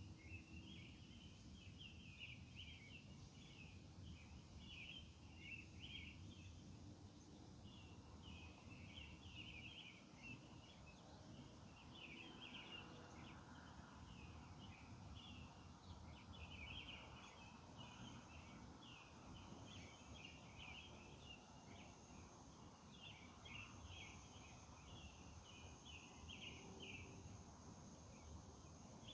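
Faint night-insect chorus: short clusters of rapid rasping chirps repeating over and over, over a steady low hum of background noise.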